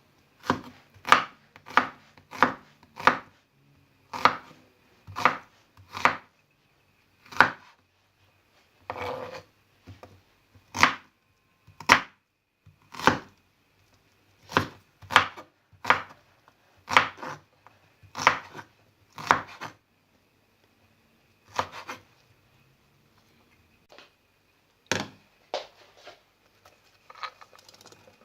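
Knife chopping food on a cutting board: sharp single cuts, roughly one a second, with a few short pauses between runs.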